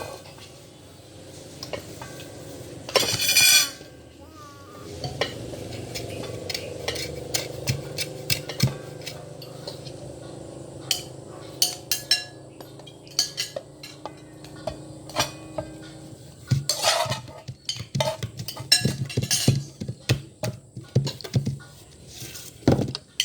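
Spoon and fork clinking and scraping against a plate while eating, many short clicks, with one louder clatter about three seconds in.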